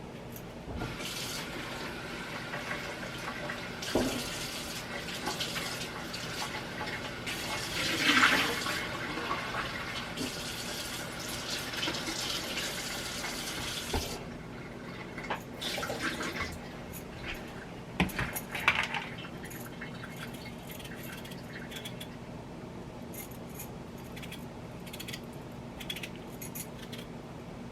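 Kitchen tap running as food is rinsed in the sink, stopping about halfway through; a few knocks and clatters follow.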